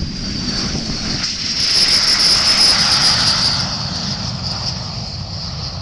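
A pair of Aero L-39 jet trainers departing at takeoff power, their turbofan engines running with a high whine over a deep rumble. The sound swells to its loudest about two to three seconds in, then eases as the jets pass and climb away.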